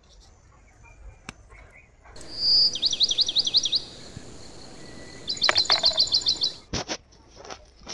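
A songbird singing two loud phrases: a held whistle breaking into a fast run of falling notes about two seconds in, then a quick series of about ten repeated notes. A few faint clicks and rustles of handling around them.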